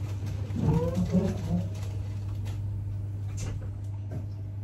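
Steady low hum inside a train carriage standing at a station, with a short burst of a voice about a second in.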